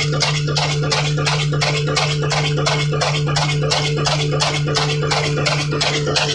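Ittefaq 18 hp 'kala desi' single-cylinder diesel engine running steadily, with even knocks about four times a second over a constant low hum.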